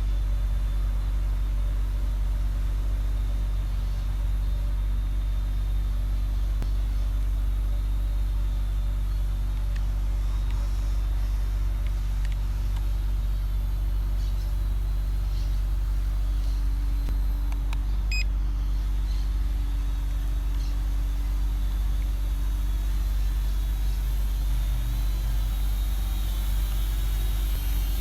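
Steady low rumble of motor vehicle engines running, even in level throughout, with a few faint clicks about two-thirds of the way through.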